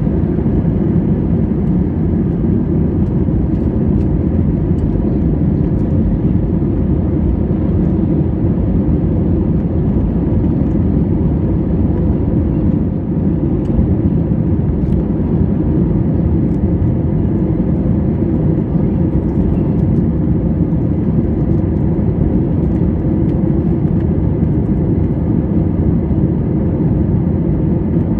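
Airbus A320 cabin noise in flight: a steady, low rumble of the engines and the air rushing past the fuselage, heard from inside the cabin.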